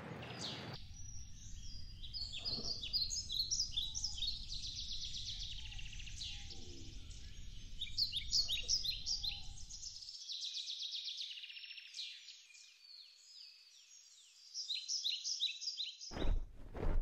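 Several small songbirds chirping and twittering in a steady run of short, high calls that sweep downward. Near the end the chirping stops and a few loud, low thuds take over.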